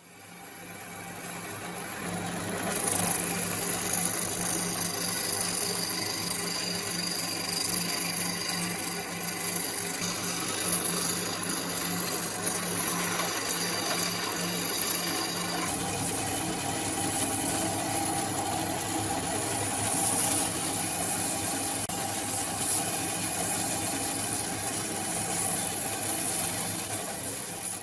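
Electric power tool motor spinning up over the first few seconds, then running steadily with a low hum and a bright high hiss. Its tone shifts about halfway through, and it winds down at the very end.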